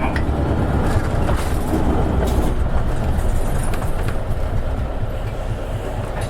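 Isuzu Erga city bus's diesel engine running under way, heard from inside the cabin as a steady low rumble. It eases slightly after about four seconds.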